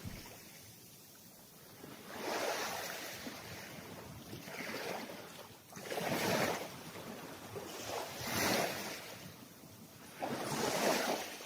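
Small waves washing on a shore, faint surges of water coming in about every two seconds.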